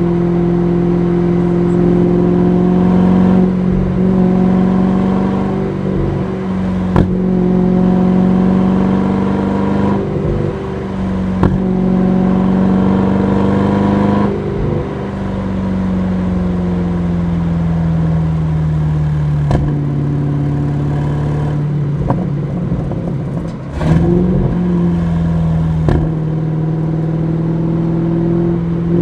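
Aston Martin DBX S's 4.0-litre twin-turbo V8 running under way at steady revs. The engine note sags through the middle, then steps quickly back up about three-quarters in, as with a gear change. A few short, sharp ticks sound over it.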